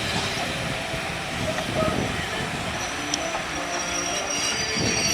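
Train running along railway track, with the wheel flanges beginning a high-pitched squeal about three seconds in that grows louder near the end.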